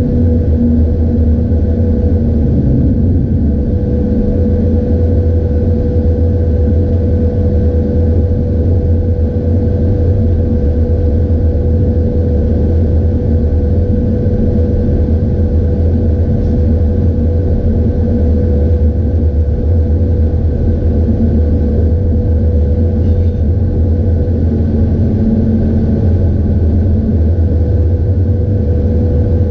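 Steady rumble of a train running on the rails, heard from the driver's cab of an El18 electric locomotive, with a constant hum from the locomotive throughout.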